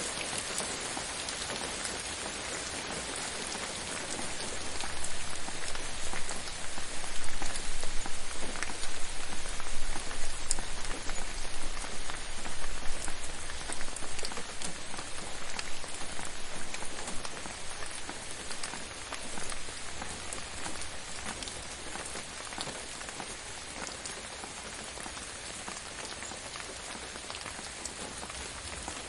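Steady rain falling on a surface, with fine individual drop ticks in the hiss. It grows heavier about five seconds in and eases off again after the middle.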